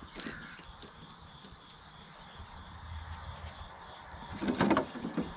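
Insects (crickets) buzzing steadily, with one chirping at a regular beat about twice a second. A short clatter, louder than the rest, comes near the end.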